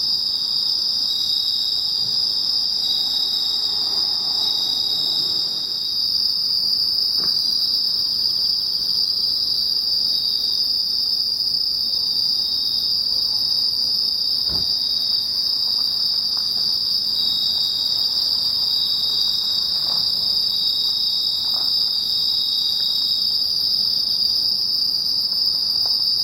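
Chorus of autumn crickets, Japanese field crickets and bell crickets (suzumushi), singing in a steady, unbroken high-pitched ring.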